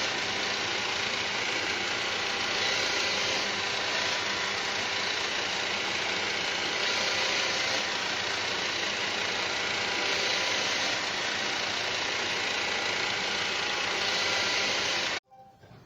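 Roomba 600 series robot vacuum running, a steady whir of its vacuum motor and brushes with several fixed tones, cut off abruptly near the end. It is spinning in circles because its drive wheels are failing, which the Roomba reports as error 10.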